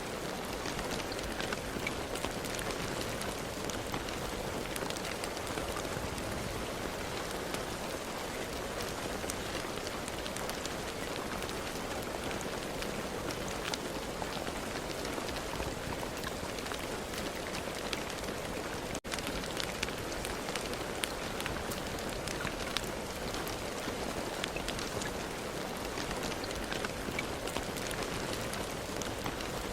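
Steady rain falling, a constant hiss with many individual drops heard as fine ticks. There is a momentary gap in the sound about two-thirds of the way through.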